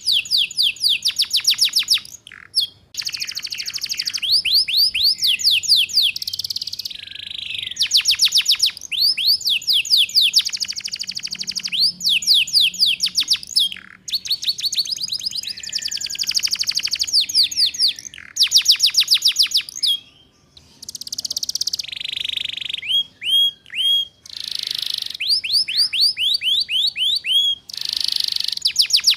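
Domestic canary singing a fast trill: phrases of rapid, high, quickly falling notes repeated many times a second, each phrase lasting a second or two with short breaks, and a few slower hooked notes past the middle. This is the 'ngeriwik' trilling style that is played as a lure and a lesson for young canaries.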